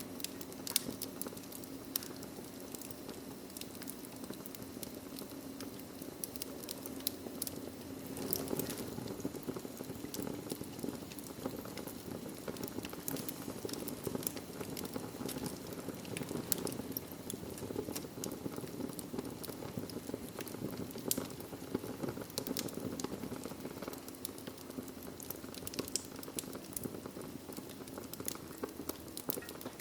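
Wood fire crackling in a fireplace: a steady low rush of flames with frequent sharp pops and crackles scattered throughout.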